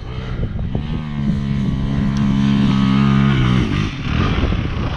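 Dirt bike engine revving up over about a second, holding a steady pitch under throttle, then easing off near the end.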